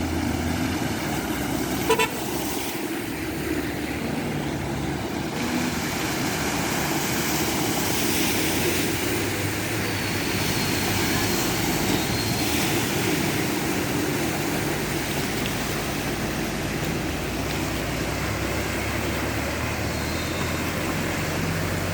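Road traffic on a flooded street: car engines running under a steady wash of tyre and water noise, with one short horn beep about two seconds in.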